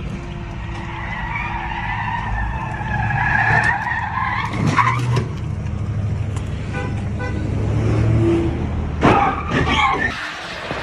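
Car sliding in a drift with its tyres squealing in a long wavering screech over the running engine, followed by sharper sudden noises about five and nine seconds in.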